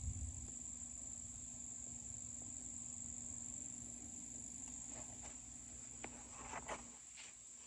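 Steady high-pitched insect chorus, with a few faint rustles about five to seven seconds in.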